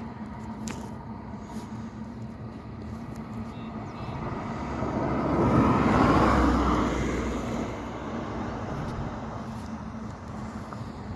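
A vehicle passing close by over steady outdoor noise: the noise swells to a peak about six seconds in, then fades over the next two seconds.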